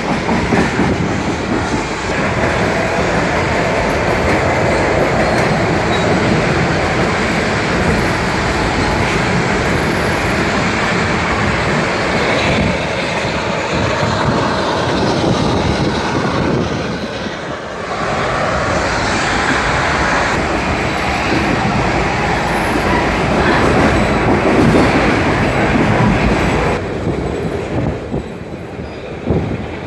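Passenger train coach rolling along the track: a steady rumble and rattle of wheels on rails, with a brief dip about 17 seconds in and a quieter stretch near the end.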